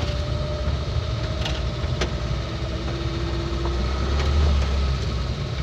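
Vehicle engine and road rumble heard from inside the cab while driving: a steady low drone with a few light clicks.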